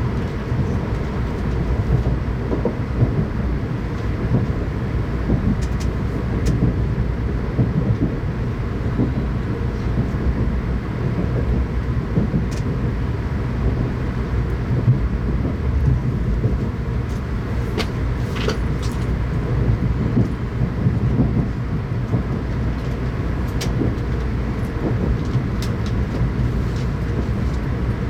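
Shinkansen train's running noise heard from inside the passenger car: a steady low rumble with scattered faint clicks.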